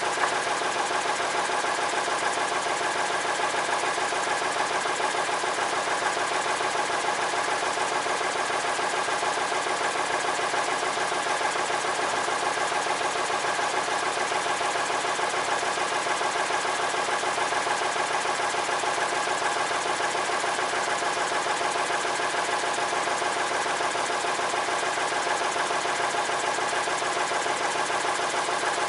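An engine running steadily at a constant speed, with an even, unbroken note.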